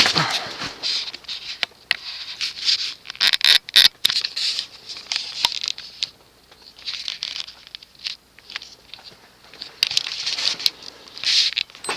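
Vintage TAT Deluxe ceiling fan with a cast-iron motor running: an uneven hiss that swells and fades every second or two, with scattered clicks and scratches. Its bearings are a bit worn, a bit loud and a little hissy.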